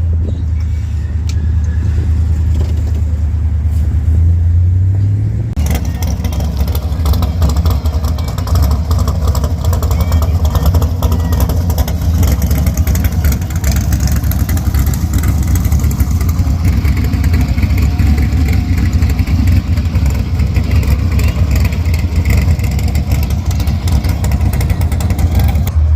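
The V8 of a 1971 Dodge Challenger R/T 340 running on the road: a steady low drone that edges up in pitch about four seconds in. From about six seconds in it turns louder and rougher, with a wide rushing noise added.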